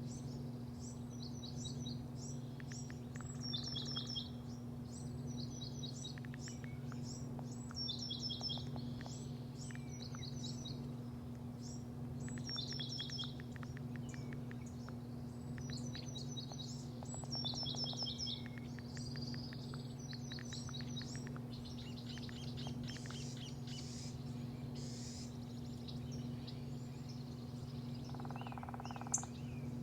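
Small songbirds chirping, repeating short phrases of quick falling high notes every second or two. Underneath runs a steady low machine hum, and there is a single sharp click near the end.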